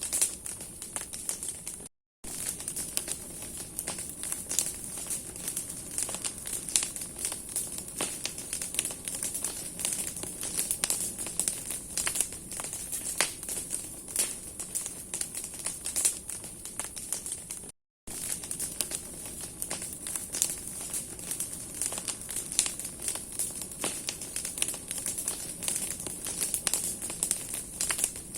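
Large bonfire of burning branches crackling and popping continuously over a steady hiss of flame. The sound cuts out twice for a moment, about two seconds in and again past the middle.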